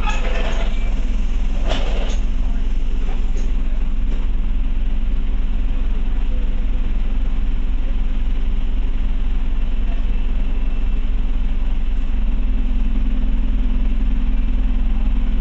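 Diesel engine of a Scania OmniCity double-decker bus running with a steady low drone, heard from inside the bus; its note steps slightly higher about twelve seconds in.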